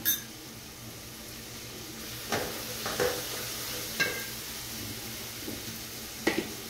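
Onion-tomato masala with ground spices and ginger-garlic paste sizzling as it fries in oil in a steel pot, with a steady hiss. A wooden spatula stirs it, knocking against the pot a few times.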